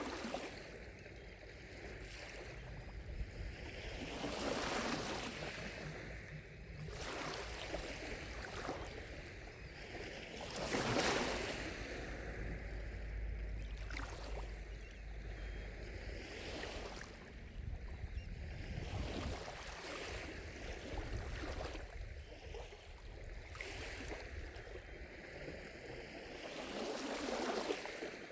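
Small lake waves lapping against the shore in irregular washes every couple of seconds, with one louder wash about eleven seconds in.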